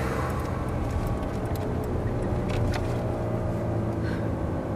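Ferrari 430 Scuderia's V8 engine running steadily as the car drives on track, heard from inside the cabin, with a few short ticks over it.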